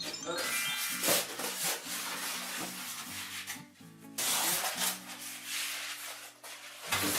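Cardboard packaging rubbing and scraping in repeated stretches as parts of an iMac's box are pulled out and handled, with a short pause about halfway through. Background music with steady low notes runs underneath.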